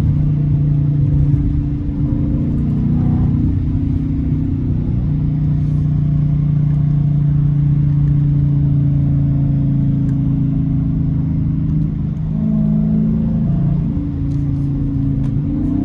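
Dodge Challenger R/T's 5.7-litre Hemi V8 running through a straight-piped exhaust while cruising, a deep steady drone whose pitch and loudness shift about two seconds in and again near twelve seconds as the throttle changes.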